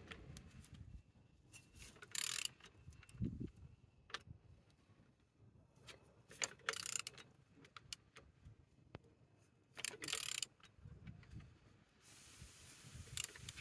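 A removed used engine being turned over by hand: faint metallic clicks, clinks and a few short scraping rasps a few seconds apart. The engine turns freely rather than being seized.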